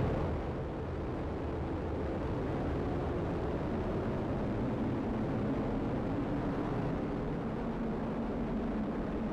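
Atlas V rocket's engines and solid rocket boosters during liftoff: a steady, deep rumbling roar heard through the launch feed as the rocket climbs.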